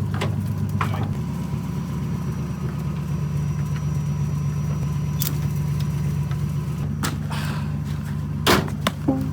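A motor vehicle's engine running steadily, its pitch stepping up about a second in, with a couple of sharp knocks near the end.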